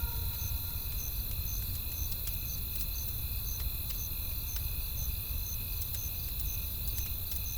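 Wood fire crackling with scattered sharp pops over a steady low rumble, while night insects chirp in an even pulse about twice a second above a steady high trill.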